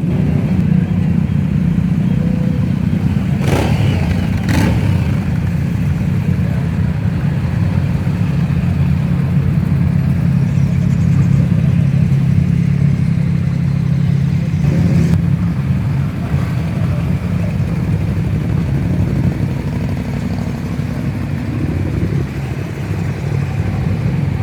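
Motorcycle engines running steadily at close range, a deep drone that eases a little in the second half, with two sharp knocks about three and a half and four and a half seconds in.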